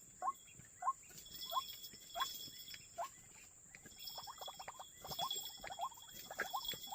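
White-breasted waterhen calling: a run of short rising notes about every half second, then from about four seconds in quicker, overlapping notes. A steady high buzz runs behind.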